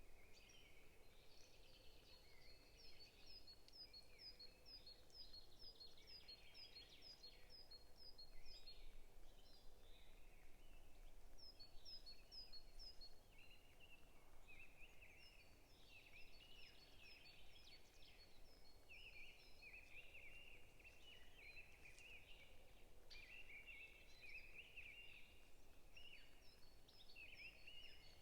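Several songbirds singing faintly in a forest. One bird repeats runs of short high notes, about two or three a second, while others warble lower phrases, over a soft background hiss.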